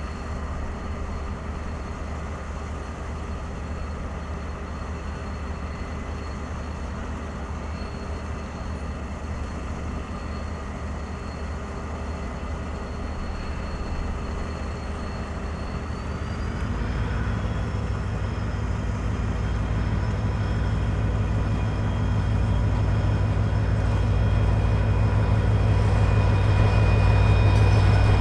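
KiwiRail EF-class electric locomotive drawing nearer with a low rumble and a steady high electrical whine. About two-thirds of the way through, the whine rises in pitch and the sound grows steadily louder; near the end the tones begin to drop as it passes.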